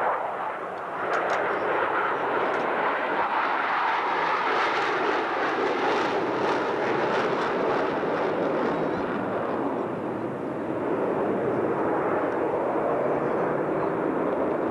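Military jet aircraft engines passing overhead: a loud, steady rushing jet noise that dips briefly about a second in and again around ten seconds.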